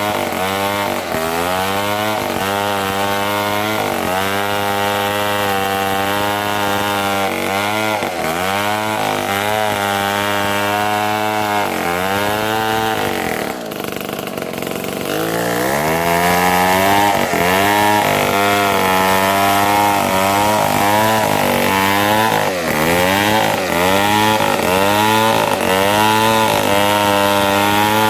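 Chainsaw cutting mahogany, the engine's pitch dipping and recovering again and again as the chain bites into the wood. About halfway it drops low, then revs back up and runs louder.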